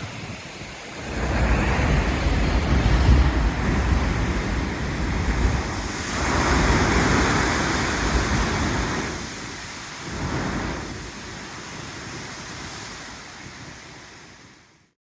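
Sea waves surging and breaking against a rocky shore. A deep rumbling surge comes first, then a hissing wash of foam and a smaller surge, before the sound fades out near the end.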